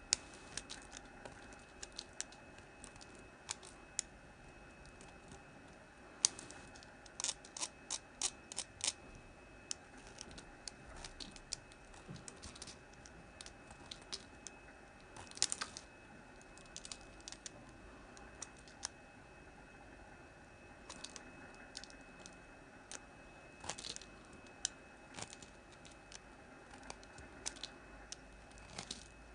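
Hard Palmolive bar soap being cut with a blade: a string of short, crisp crunching clicks at an uneven pace, with a quick run of them about a quarter of the way in.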